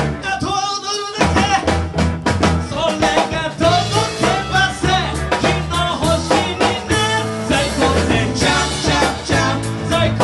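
Live band music: an upbeat song with a drum kit keeping a steady beat under bass and other pitched instruments.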